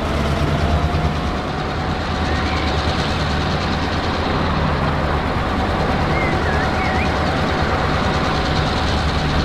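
Diesel locomotive engine sound running steadily, with a low hum, a steady whine above it and a few short high chirps partway through.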